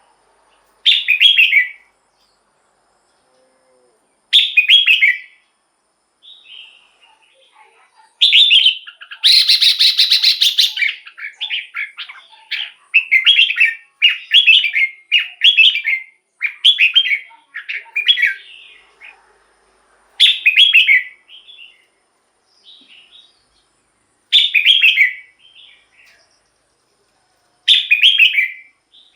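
Red-whiskered bulbul singing: short, clear whistled phrases of about a second each, separated by pauses. A quicker run of phrases comes in the middle, just after a harsher, noisier burst about nine seconds in.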